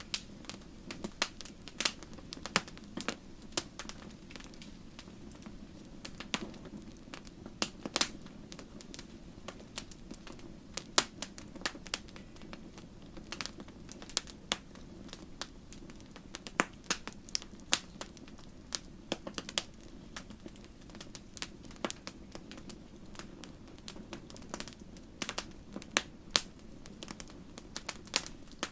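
Campfire burning, with frequent sharp, irregular crackles and pops of burning wood over a steady low rush of flame.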